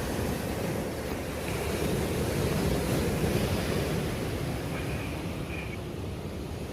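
Sea surf washing onto a beach, a steady rush that swells a little in the middle, with wind rumbling on the microphone.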